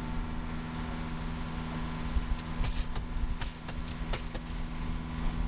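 A steady mechanical hum on board a moving sailboat, with wind buffeting the microphone and a few light clicks about three to four seconds in.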